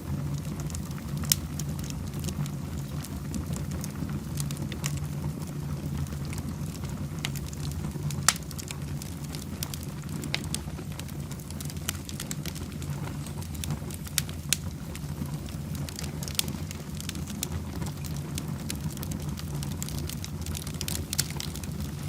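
Fire in a fireplace crackling, with sharp pops scattered irregularly over a steady low rumble.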